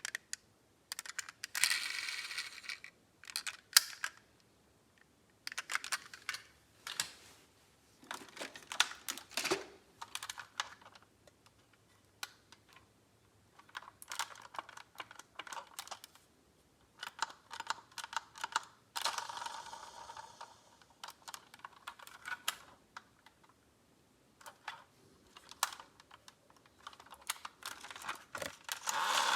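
Small diecast metal model cars being handled: irregular clusters of sharp clicks and clinks as they knock together and are set down, with a few short stretches of scraping or rattling.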